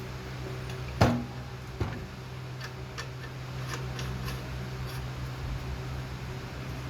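A sharp knock about a second in, a smaller knock just under a second later, then a few light clicks, over a steady low hum.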